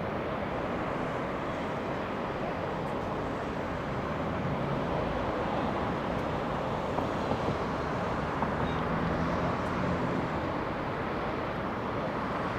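Jet airliner engines heard as a steady, even noise with faint low tones underneath, holding at much the same level throughout.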